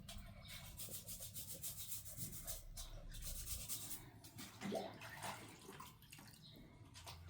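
Faint rustling and rubbing noise, with a brief faint squeak a little under five seconds in.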